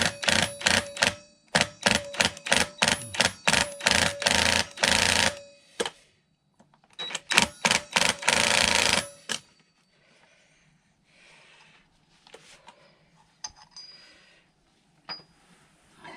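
Power impact wrench hammering on the scooter's 46 mm clutch nut to undo it: a fast rattle of sharp blows over a steady motor whine, in two runs, the second starting about two seconds after the first stops. Faint clinks of metal parts being handled follow.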